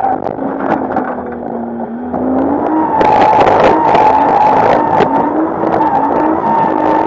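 Nissan Skyline R34's RB25 straight-six held at high revs while drifting, bouncing off the rev limiter in a rapid stutter. It gets louder and steadier from about three seconds in.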